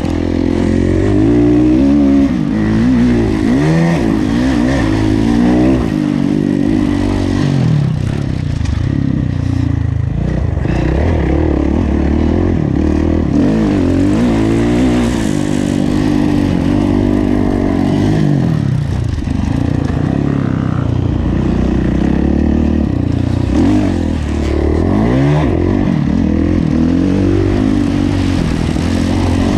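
Kawasaki KX450F's single-cylinder four-stroke engine under race throttle, its pitch repeatedly rising and falling as the rider accelerates, shifts and backs off around the motocross track.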